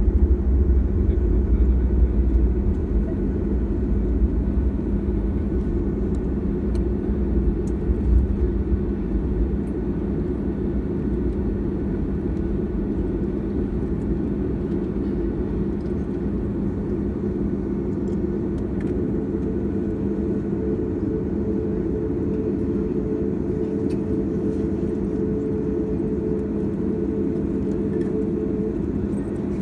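Boeing 737-800's CFM56 jet engines running at low power, heard as a steady drone with a deep rumble that eases after about eight seconds. A steady hum comes in about twenty seconds in.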